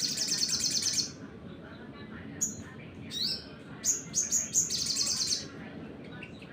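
A sunbird sings its rapid, high-pitched trilled song in two bursts: one about a second long at the start, then a few short rising chirps and a longer trill past the middle.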